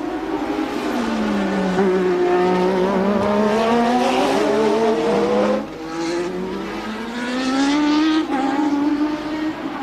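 1988 Formula One car engine at high revs. The pitch falls as it slows at the start, then climbs under acceleration and drops sharply at gear changes about five and a half and eight seconds in.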